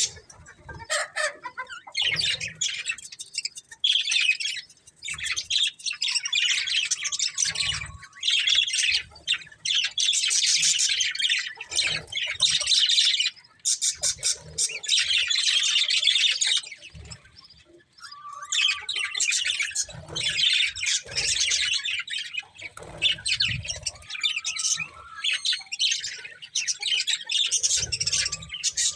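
Budgerigars chattering and warbling in long runs of fast, high chirps, broken by short pauses, with a few faint low thuds.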